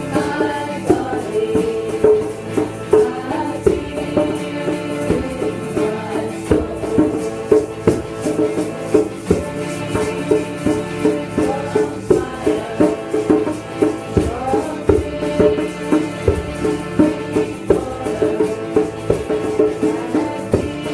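Kirtan music: sustained pitched instruments and voices over a shaker-type rattle that keeps a steady beat of about two strokes a second.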